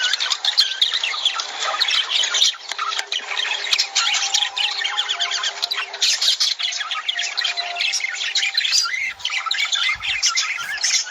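A flock of lovebirds chattering and squawking: many shrill, overlapping chirps and squawks at once, without a break.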